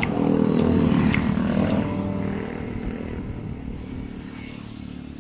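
A motorcycle engine passing on the road, loudest in the first two seconds and then fading away.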